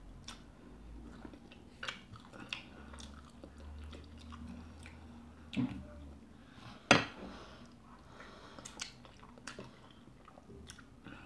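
Close wet chewing and mouth smacks of a person eating fufu and nsala soup with meat by hand, with scattered small clicks and one sharp click about seven seconds in.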